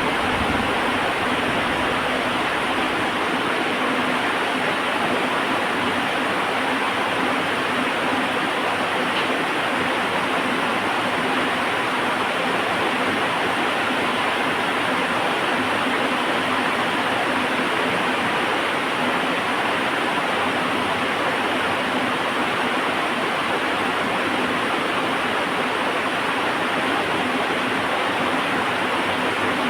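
Heavy rain falling steadily, an even hiss. A low rumble dies away in the first few seconds.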